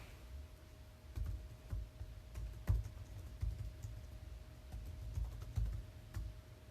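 Typing on a computer keyboard: irregular clicks with soft low thuds.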